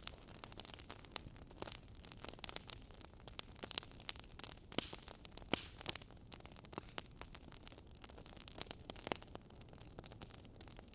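Wood fire crackling in a fireplace: a constant run of small irregular pops and snaps.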